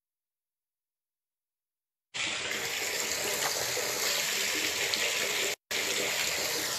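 Heavy rain falling on a wet street: a steady hiss that starts suddenly about two seconds in after dead silence, with a split-second dropout near the end.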